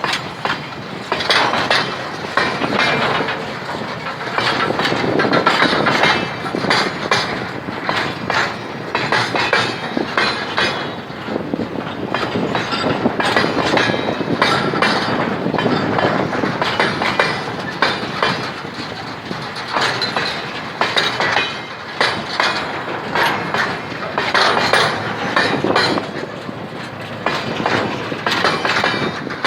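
Freight train wagons rolling past, their wheels clattering over rail joints with frequent metallic clanks.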